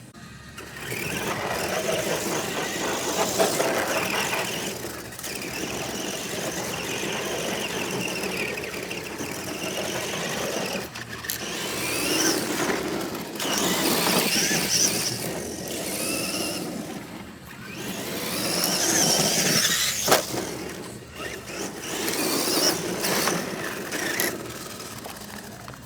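A vehicle engine revving up and down repeatedly, with a high-pitched squeal over it.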